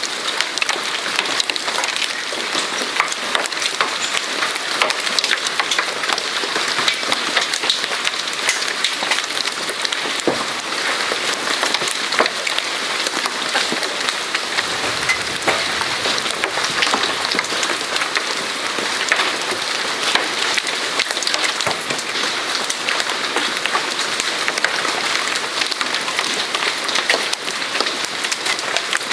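Hail and rain falling hard: a dense, steady patter with many sharp ticks of hailstones striking.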